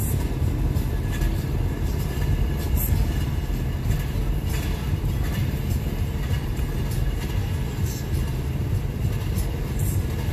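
Steady low rumble of a moving vehicle, with scattered faint clicks and rattles.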